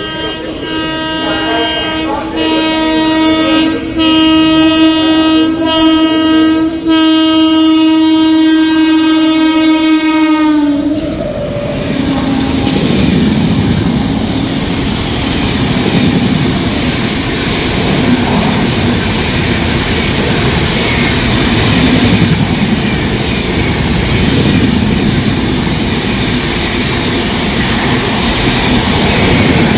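WAP7 electric locomotive's horn sounding one long blast with a few short breaks for about ten seconds, dropping slightly in pitch as it passes. Then comes the steady rush and clatter of the express train's coaches running by.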